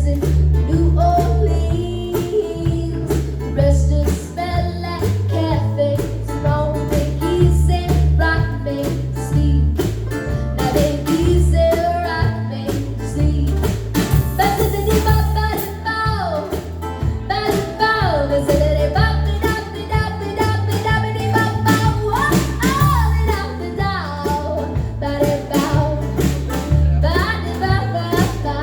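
Live band playing a song: a young girl singing lead over strummed guitar and a pulsing bass line with a steady beat.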